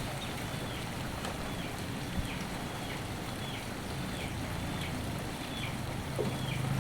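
Steady rain, with a short high chirp from a bird or insect repeating evenly about every two-thirds of a second.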